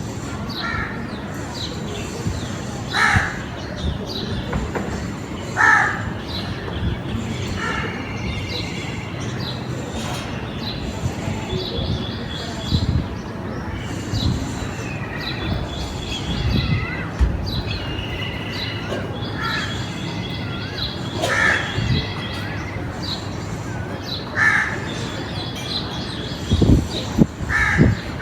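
Crows cawing in single short harsh calls every few seconds, over the steady chirping and trilling of smaller birds. A couple of low thumps near the end.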